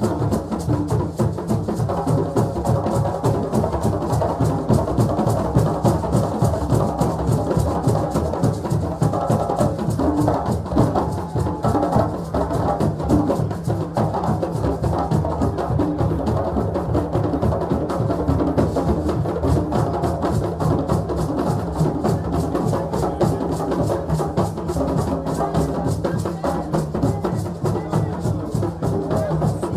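African drums played in a fast, steady rhythm at a celebration, with crowd voices mixed in beneath the drumming.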